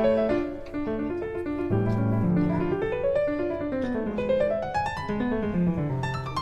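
Background piano music, with quick rising and falling runs of notes.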